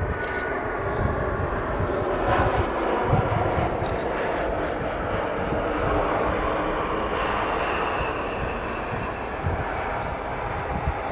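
Jet noise from an Airbus A220-300's Pratt & Whitney PW1500G geared turbofans as the airliner lands: a steady, dense rush with a faint whine running through it.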